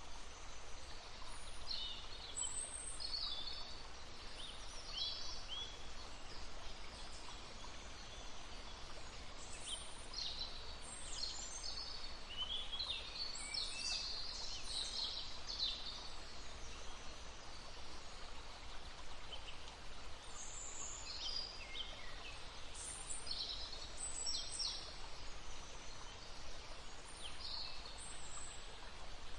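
Several small songbirds chirping and trilling in short high phrases, busiest in the middle and again after about twenty seconds, over the steady rushing of a stream.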